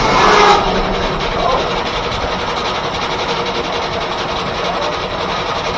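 Steam-driven 1880s R.R. Howell sawmill at work. A louder, rougher sound stops sharply about half a second in, leaving the mill's machinery running with a steady, even clatter.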